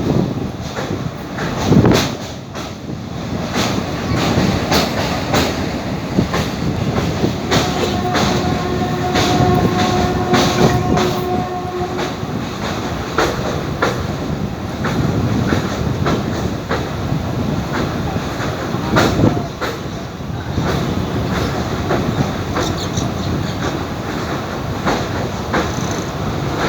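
Train running across a river bridge, its wheels clattering over the rail joints in a steady stream of clicks over a continuous rumble. A steady pitched tone is held for about four seconds roughly a third of the way in.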